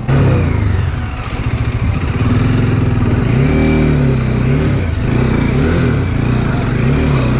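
Bajaj Dominar 400's single-cylinder engine revving, its pitch climbing and dropping again several times as the throttle is opened and closed.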